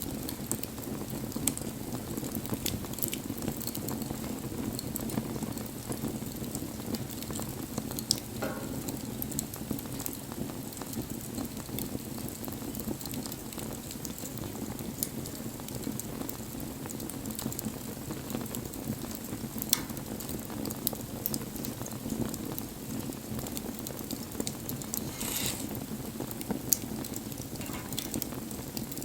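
Wood bonfire burning: a steady rush of flame with crackling and scattered sharp pops of burning wood, and a brief hiss about three-quarters of the way through.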